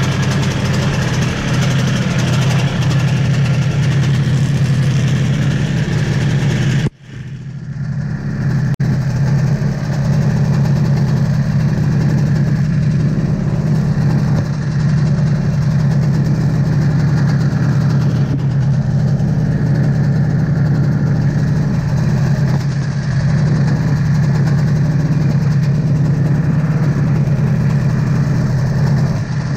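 1982 Yamaha Bravo snowmobile's two-stroke single-cylinder engine idling steadily as it warms up in the cold. The sound cuts out abruptly for a moment about seven seconds in, then returns to the same steady idle.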